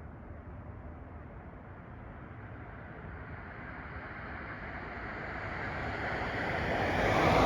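A vehicle approaching along a road, its tyre and engine noise swelling steadily and loudest near the end as it passes.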